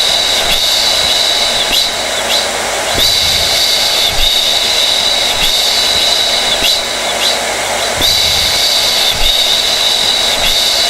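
Hair dryer blowing steadily: a loud rush of air under a high-pitched whine. The whine briefly dips and returns about every five seconds.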